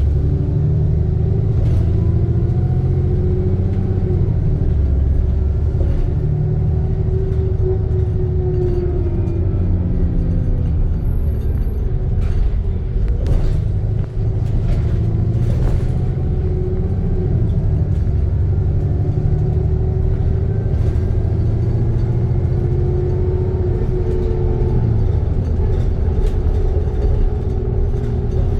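Alexander Dennis Trident II Enviro 400 double-decker bus engine and driveline running under way, its drone and whine rising and falling in pitch as the bus speeds up and slows. A few brief rattles and clicks come through around the middle.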